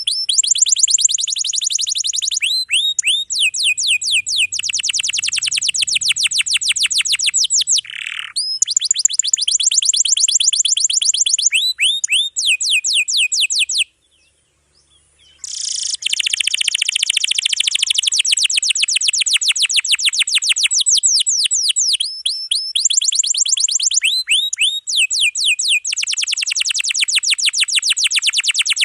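Domestic canary singing a long, dense song of fast rolling trills and rapid repeated high-pitched notes, phrase after phrase, with a break of about a second and a half about halfway through.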